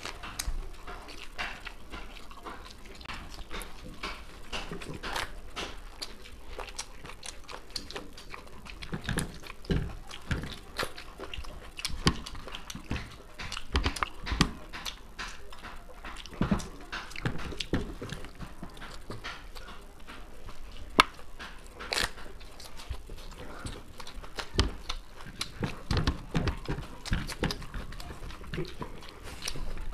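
Two people eating with their hands close to a microphone: wet chewing and lip-smacking on chowmein noodles, fried rice and chicken Manchurian, with many short, irregular clicks and smacks.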